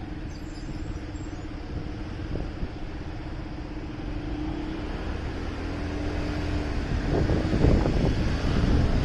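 Motorcycle engine running at a steady pitch while riding, with a low rumble underneath. Wind buffets the microphone, growing louder over the last two seconds.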